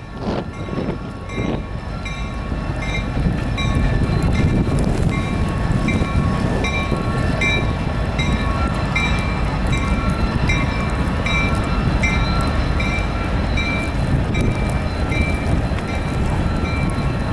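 CSX diesel freight train rolling past: steady locomotive engine and wheel rumble, with a high, bell-like ring repeating a little under twice a second.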